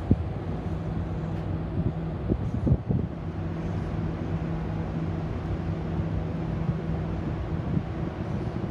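A steady low engine drone with a constant hum under an even background rush, and a few short knocks about two to three seconds in.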